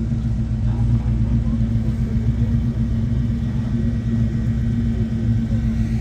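A car engine running steadily at low revs, a deep, even sound with no revving up or down.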